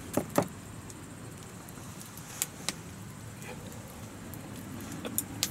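A few sharp clicks and taps from food and utensils being handled over a campfire grill, over a steady low hiss.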